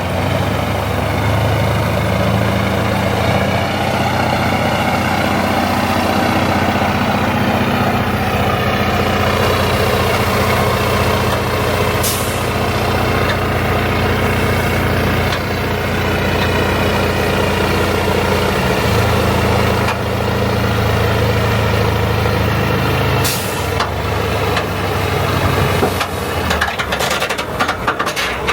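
Oilfield truck's engine running at a steady speed, with two short sharp air hisses, about twelve seconds in and again near twenty-three seconds. Irregular knocks and clanks come in near the end.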